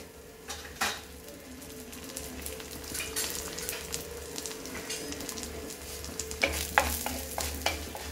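Urad dal and chana dal sizzling steadily in hot oil in a kadai. In the last couple of seconds a wooden spatula scrapes and knocks against the pan, stirring the dal.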